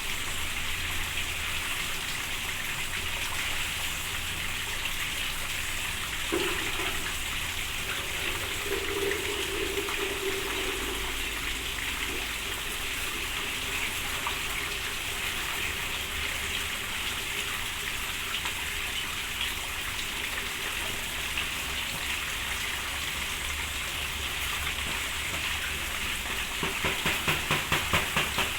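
Steady rain falling, an even hiss of drops. Near the end a quick run of about a dozen rapid pulses cuts in over the rain.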